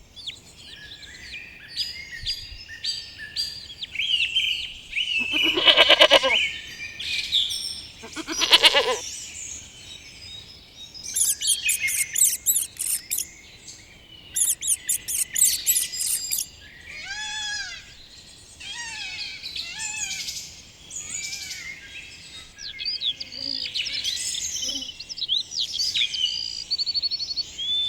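Many birds chirping and singing in short high calls, with two loud harsh calls about six and eight seconds in.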